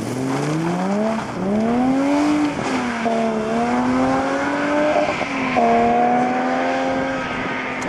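BMW E30 rally car's engine accelerating hard. The revs climb and drop at gear changes about one and two and a half seconds in, then hold a steadier note, with a brief dip about five seconds in, as the car pulls away.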